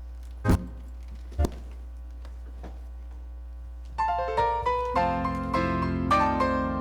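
Two sharp thumps about a second apart, then a piano begins playing about four seconds in, single notes at first and then fuller chords. A steady low hum runs underneath.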